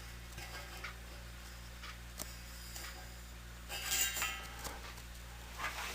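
1970 Triangle Mobile Home Products bathroom exhaust fan running with a steady low hum. A few faint clinks and rustles come about four seconds in.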